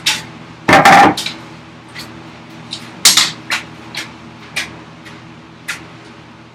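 Hand tools being handled and set down on a wooden workbench while a line is marked out: a louder clatter about a second in, then a scatter of sharp clicks and taps, over a faint steady hum.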